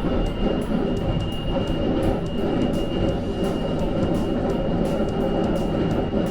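Passenger train running, heard from inside the carriage: a steady rumble and rolling noise with a thin, steady high whine.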